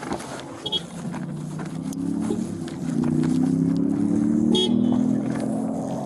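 A vehicle's steady drone, rising slightly in pitch and growing louder, then holding at a higher level from about three seconds in.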